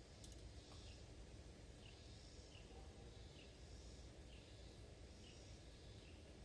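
Very faint outdoor ambience: a bird repeats a short, falling chirp about once a second over a low steady rumble.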